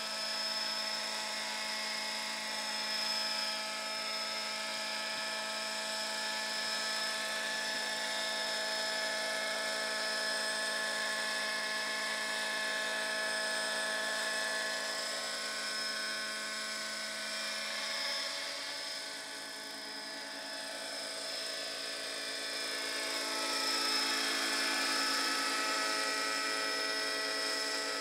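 Radio-controlled model helicopter running, a steady high whine from its motor and rotors. Its pitch shifts and the sound fades a little about two-thirds of the way through, then it grows louder again.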